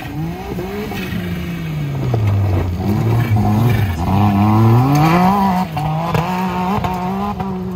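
Modified Suzuki Jimny's engine revving hard as it drives up a steep dirt hill-climb section, the revs rising and falling several times under load.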